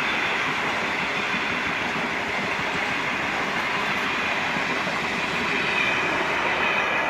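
The Overland passenger train running past on the main line, its wheels giving a steady rumble and clatter on the rails.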